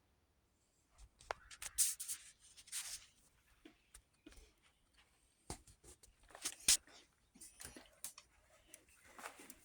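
Scattered clicks, knocks and brief rustling scrapes of a plastic object being handled, with no motor running.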